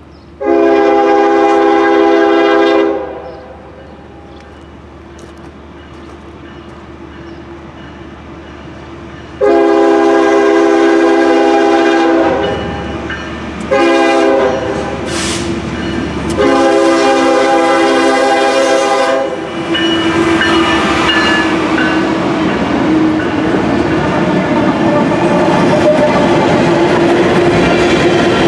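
Air horn of a Norfolk Southern GE ES40DC locomotive sounding the grade-crossing signal: two long blasts, a short one and a long one, with the train's rumble growing louder between them. From about twenty seconds in, the train is passing: covered hopper cars rolling by with wheels clacking over the rails.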